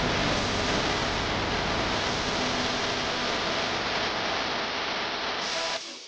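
Waterfall water rushing, a steady loud hiss that cuts off abruptly near the end.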